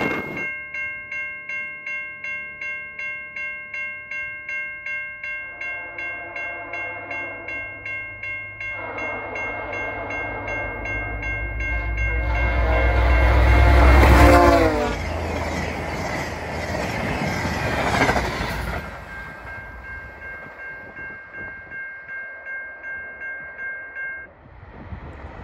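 Level-crossing warning bell ringing about twice a second while a VIA Rail passenger train approaches blowing its horn. The horn drops in pitch as the locomotive passes about halfway through with a loud rumble, the cars roll by, and the bell stops near the end.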